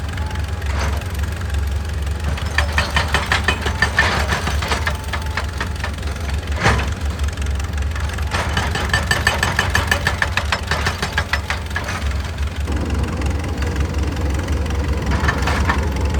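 Excavator's diesel engine running steadily, with stretches of fast, rapid knocking laid over it and one sharper, louder knock about seven seconds in.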